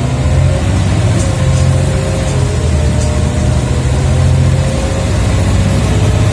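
Scania OmniCity bus's diesel engine and ZF automatic gearbox, heard from inside the saloon, pulling steadily under load with a deep drone and a gearbox whine that drifts a little in pitch. A few faint rattles come in the first half.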